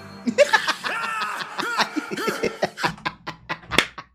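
Laughter: a voice for the first couple of seconds, then breaking into short repeated bursts of about four or five a second.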